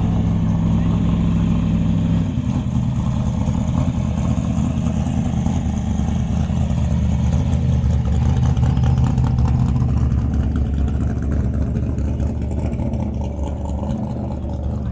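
Car engine running at low revs close by, a steady low hum whose pitch drops about two seconds in and then holds.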